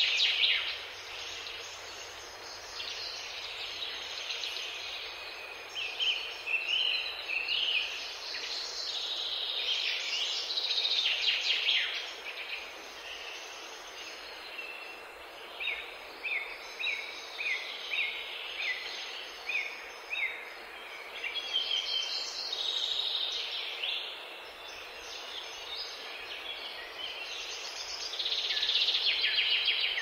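Songbirds singing and chirping, a busy run of short, varied high notes with some louder phrases, over a steady faint background hiss.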